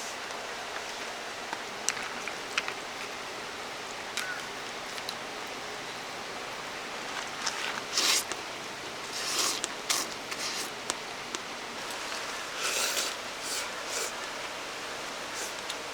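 Steady rush of a valley stream, with scattered clicks and several short rustling bursts over it, the loudest about eight seconds in and again around thirteen seconds.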